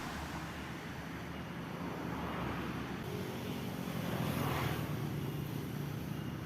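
Road traffic noise: a steady low rumble, swelling as a vehicle passes about four seconds in.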